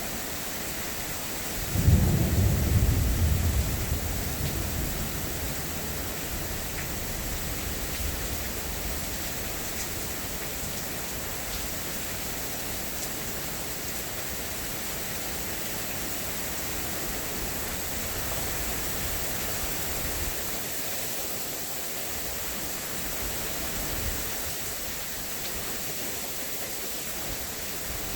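Steady rain in a thunderstorm, with a loud, deep clap of thunder about two seconds in that rumbles and fades over a few seconds.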